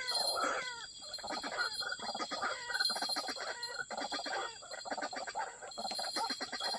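White-breasted waterhen calling: a fast run of repeated croaking notes that keeps going, over a steady high-pitched buzz.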